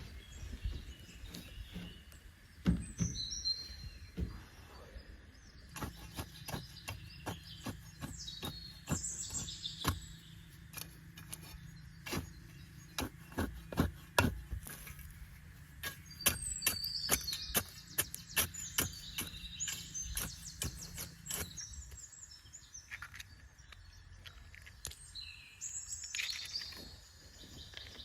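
Birds chirping and calling, with a long run of sharp knocks and taps, some in quick bursts, as something hard is struck or handled. A low steady hum runs underneath through the middle stretch.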